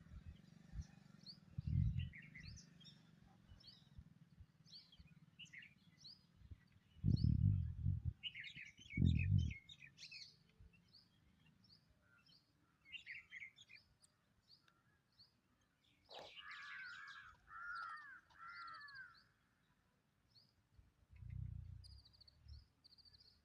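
Several songbirds chirping and calling, with short high tweets throughout; about sixteen seconds in, one bird gives a run of four repeated, lower arched notes lasting a few seconds. Low rumbles break in twice about seven to nine seconds in and again near the end, loudest of all.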